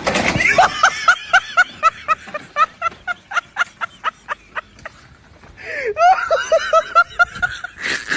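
A person laughing hard in quick repeated 'ha' pulses, about four a second. The laughter fades out, then a second bout starts near the middle and runs on.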